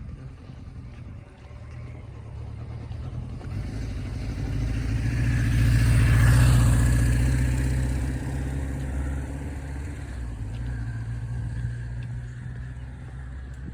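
Engine noise of a vehicle passing by, swelling to a peak about six seconds in and then fading away.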